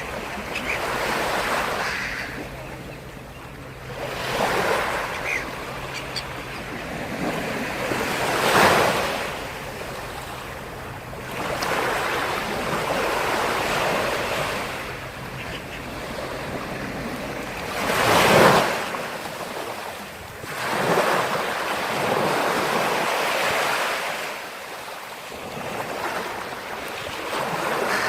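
Black Sea surf breaking on the shore: waves rush in and fall back every few seconds, two of them breaking louder, about a third and two thirds of the way through.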